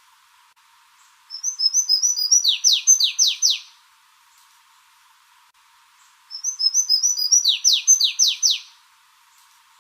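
A songbird singing two repeated phrases about five seconds apart, each a quick run of short high chirps ending in three or four loud downward-sliding whistles.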